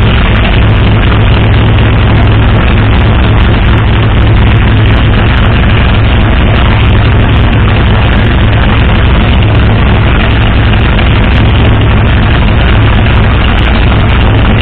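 503 cubic-inch big-block Ford V8 with a big solid-lifter cam, idling steadily through a short side-dump exhaust after a cold start.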